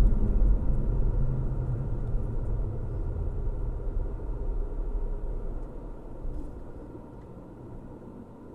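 Car driving, a steady low rumble of road and engine noise that dies away over about six seconds, leaving a faint low hum.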